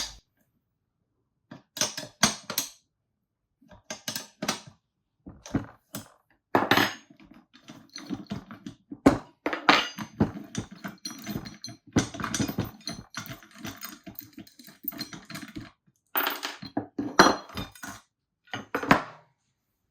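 Metal tools clinking and grating in irregular bursts while a swingarm bearing is pressed home with a socket on a bolt-and-plate bearing press. There is a busier run of clicks and scraping through the middle, with short silent gaps between bursts.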